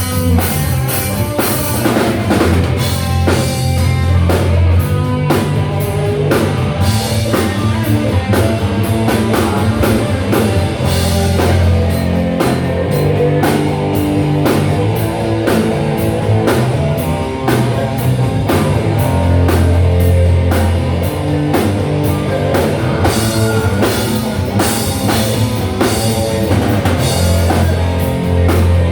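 Live rock band playing: drum kit with steady beats, electric guitar and bass.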